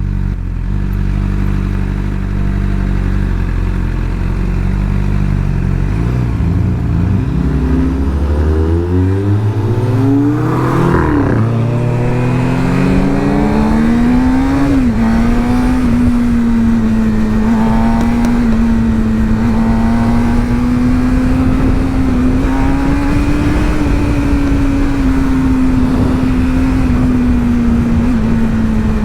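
Sport motorcycle engine under way. It runs low at first, then the revs climb from about six seconds in, drop back at a shift near fifteen seconds, and settle to a steady cruising note with rushing noise underneath.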